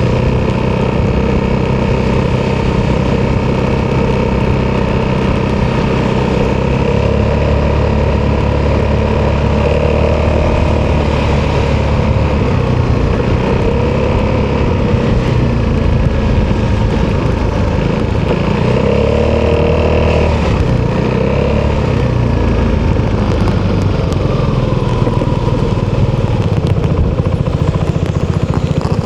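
Italjet Dragster 200's single-cylinder four-stroke engine running through an Akrapovic exhaust while riding. Its pitch rises and falls a few times as the throttle is opened and closed.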